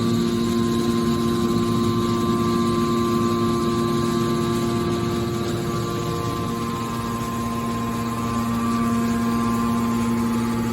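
Hydraulic scrap baler running, a steady hum from its motor and hydraulic pump, easing off slightly about halfway through.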